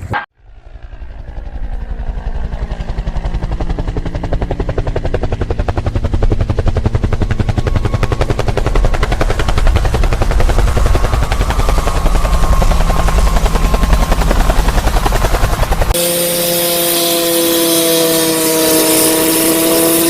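Helicopter rotor blades chopping in a fast, even beat that grows steadily louder over many seconds. About three-quarters of the way through, the sound switches abruptly to a steady, high whine with several held tones and a hiss.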